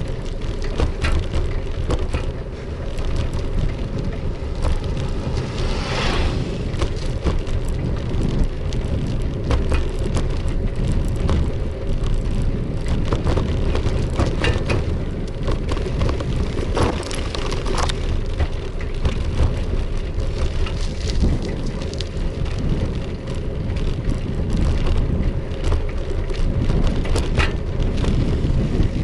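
Riding noise from a bike on a bumpy road edge: steady wind rumble on the microphone with frequent rattles and knocks as it goes over the rough surface.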